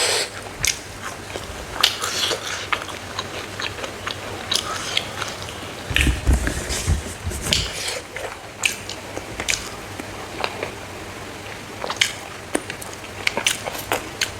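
Close-miked chewing and crunching of dry, smoked frog, with many short crisp crackles. A brief low rumble about six seconds in.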